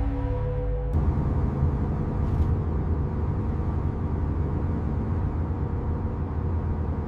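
Music cuts off about a second in, giving way to a steady low rumble.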